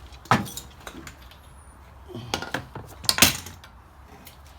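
A few sharp metallic clinks and knocks, with one strong knock shortly after the start and the loudest a little past three seconds in. These are metal parts and tools being handled while a car's fuel filter and its lines are removed.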